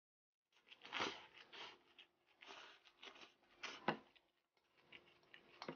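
Close-miked chewing of a mouthful of cold buckwheat liangpi with crunchy pea shoots: irregular crunches and wet mouth sounds, with a couple of sharper clicks, one just before the end.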